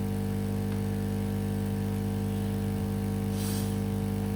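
A steady electrical hum with a stack of even tones and a level that does not change. A short hiss comes in about three and a half seconds in.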